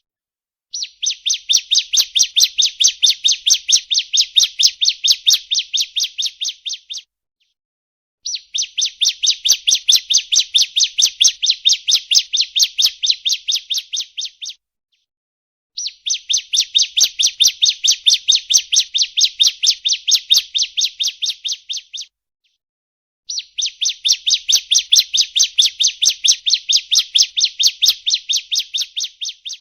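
Bar-winged prinia (ciblek) calling: a rapid run of sharp, high notes at about five a second, in four bouts of about six seconds with short pauses between. It is a lure call recording, played to make wild prinias answer.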